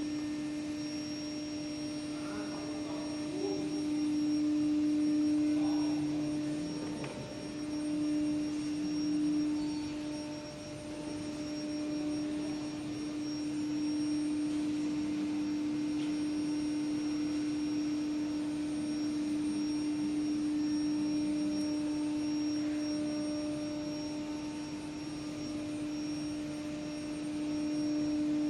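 Steady electrical or machine hum from factory equipment: one constant mid-pitched tone with fainter overtones above it, over a light background hiss.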